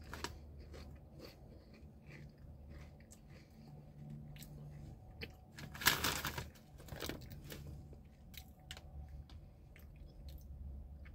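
A person chewing potato chips with mouth closed: scattered crisp crunches, the loudest about six seconds in and another about a second later, over a low steady hum.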